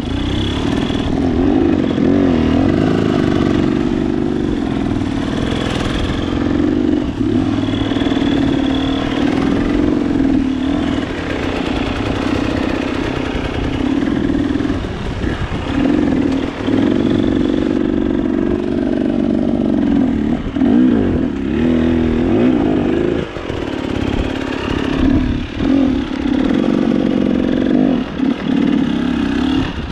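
KTM enduro motorcycle engine running hard while ridden up a steep, technical trail, the note wavering and dipping several times as the throttle is worked, with clatter over the rough ground.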